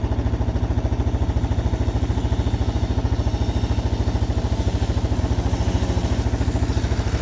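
X-Pro Bolt 50 dirt bike's small single-cylinder engine running steadily with an even, rapid throb.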